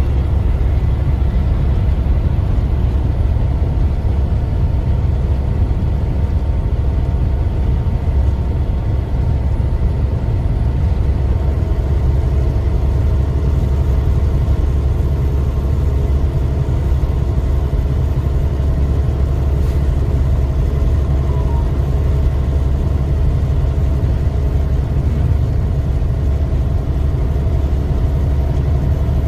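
Tractor-trailer truck's engine running steadily, a constant low rumble.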